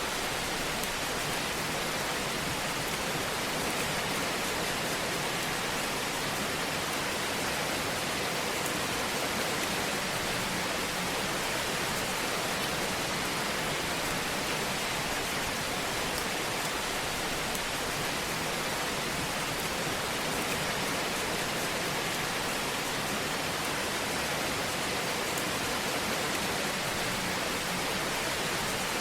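Wood fire crackling in a fireplace: a steady, dense hiss sprinkled with many small crackles.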